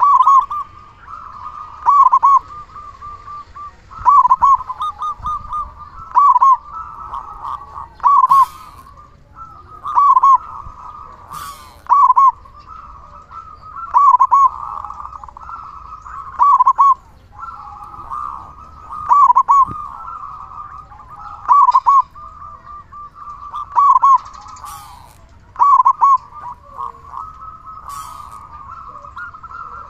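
Zebra dove (perkutut) cooing: a loud cooing phrase repeated about every two seconds, with softer cooing in between. A few brief clicks sound now and then.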